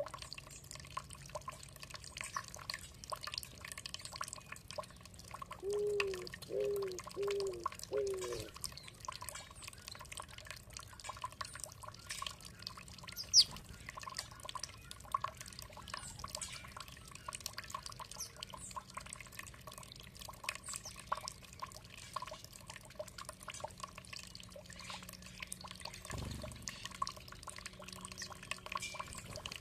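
Water dripping steadily in many small, quick drops. Four short low calls come in a row about six seconds in, and a single sharp high bird chirp stands out about 13 seconds in.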